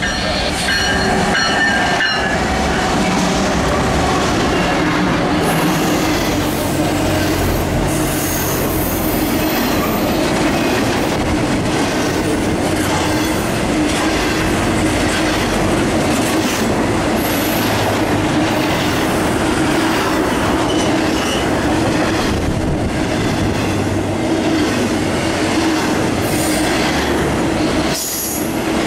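A Norfolk Southern freight train passes close by at speed: the lead diesel locomotives, a GE Dash 9-44CW and Dash 8-40CW with an EMD SD80MAC, run by, then a long string of intermodal trailers on flatcars rolls past. The steel wheels keep up a steady loud rumble and hum, with occasional sharp clacks over rail joints.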